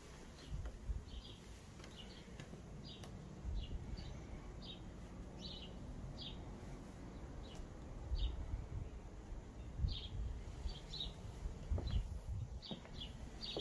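A small bird chirping repeatedly, short high chirps about once or twice a second with a pause of a couple of seconds in the middle, over a low gusting rumble.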